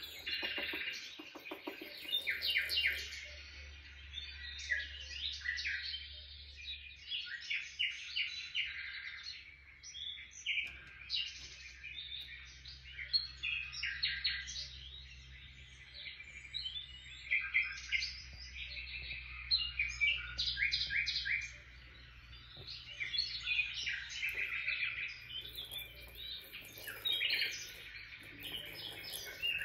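Small birds chirping and twittering in a busy, unbroken stream of quick short notes and rapid trills.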